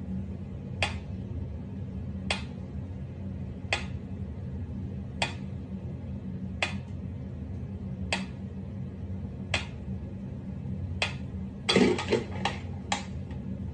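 Mechanical pendulum metronome ticking slowly and evenly, about one sharp tick every second and a half. Near the end there is a quick cluster of clicks and a dull knock.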